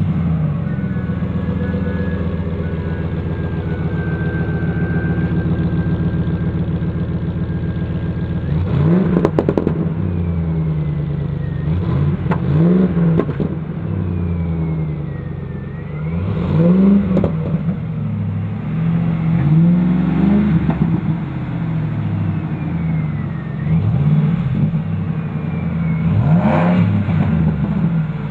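2006 Ford F-150's 5.4-litre V8 running through an MBRP stainless steel catback exhaust: a steady idle for about eight seconds, then a series of short throttle blips, each rev rising and dropping back to idle.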